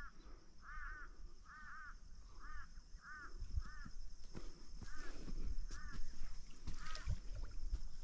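A bird calling over and over: about a dozen short notes that rise and fall in pitch, some in quick pairs, at a bit under two a second, stopping about seven seconds in.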